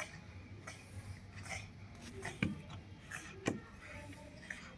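Two sharp knocks about a second apart, over faint scuffling and rustling.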